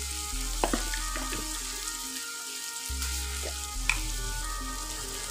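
Onion, tomato and chilli masala frying in oil in a non-stick wok, a steady sizzle, with a few light clicks.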